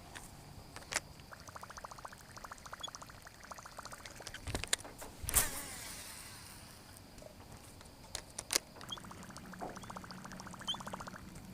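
A fishing reel cranked in two spells, each a fast, even ticking lasting about two seconds, with a few sharp knocks on the boat in between.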